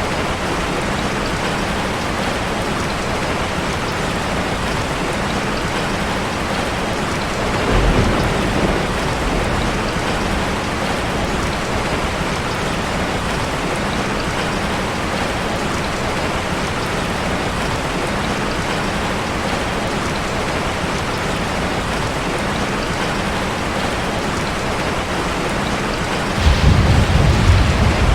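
Heavy rain drumming steadily on a car's roof and windows. A short low rumble of thunder comes about 8 seconds in, and a louder, longer thunder rumble comes near the end.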